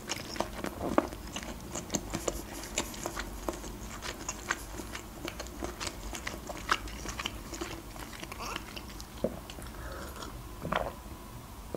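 Close-miked chewing of boiled shrimp: many sharp wet mouth clicks and small crunches. Near the end there is a gulp from a glass of drink.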